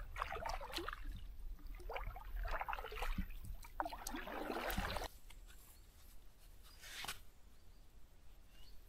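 Canoe paddle strokes splashing and dripping in river water, three strokes about a second and a half apart. Then quieter, with a single sharp knock about seven seconds in.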